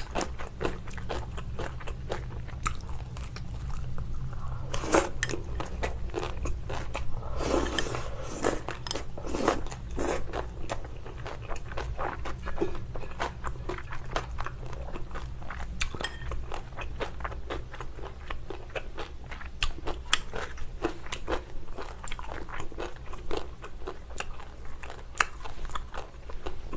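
Mouth sounds of eating thin pork belly and fresh spicy kimchi: steady chewing with many small crunches and wet clicks. There is a louder spell of crunching about eight seconds in.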